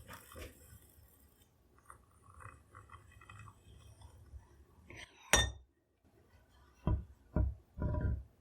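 Tools handled on a wooden workbench: faint scratching and shuffling, then a single sharp clink with a short ring about five seconds in, followed by three dull knocks near the end.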